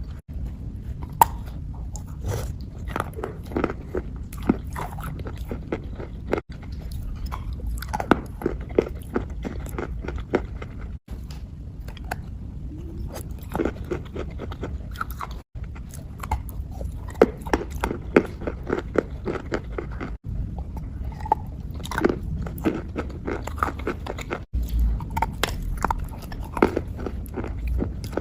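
Close-miked ASMR wet crunching and chewing: a dense, irregular run of crisp crackles and crunches over a low rumble. The sound breaks off abruptly about five times where one clip is cut to the next.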